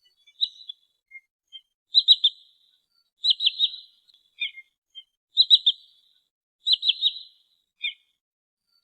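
Sandpiper (trinil sawah) calling in quick runs of three or four sharp, high notes, repeated about every second and a half with single notes between. It is a recording played as a lure to draw sandpipers in.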